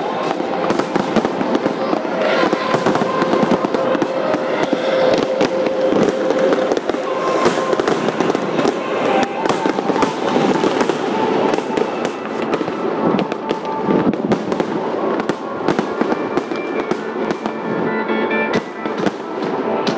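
Fireworks going off in rapid succession, many sharp bangs and crackles close together, with the display's music soundtrack playing underneath.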